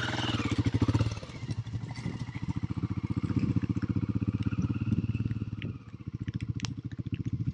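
Motorcycle engine running at low revs, a steady train of even firing pulses that eases back briefly twice.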